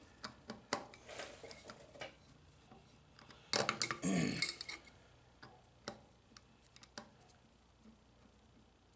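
Small metal and plastic parts and hand tools clicking and clinking as a vending machine's rotor gearbox is taken apart, with a louder clattering rattle lasting about a second, three and a half seconds in.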